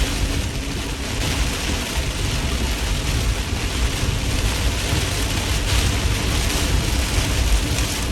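Heavy rain pelting a moving car, heard from inside the cabin as a steady hiss over the low rumble of the car and road.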